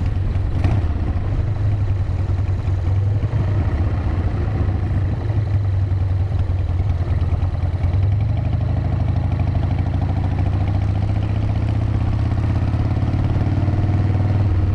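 Harley-Davidson motorcycle engine running steadily while riding, with wind noise around it. Its pitch climbs gradually in the second half as the bike picks up speed.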